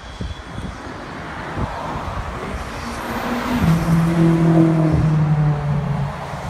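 BMW M6 Gran Coupe's twin-turbo V8 through a straight-piped exhaust as the car drives past. Its noise swells as it approaches, gives a steady drone at one pitch at its loudest about four seconds in, then eases off as it moves away.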